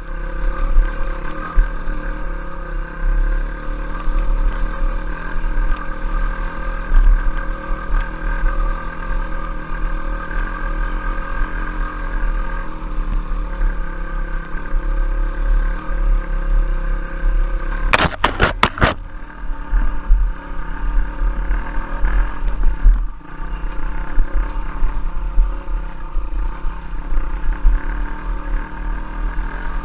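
Trail motorcycle engine running steadily under a heavy low rumble, its pitch shifting a little about halfway through. A quick run of four or five sharp knocks comes about two-thirds of the way in.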